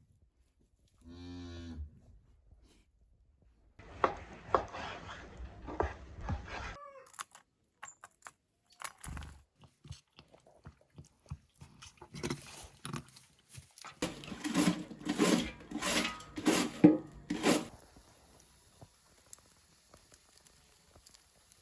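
A cow moos once, briefly, about a second in, followed by bouts of knocking and crunching, loudest a little past the middle.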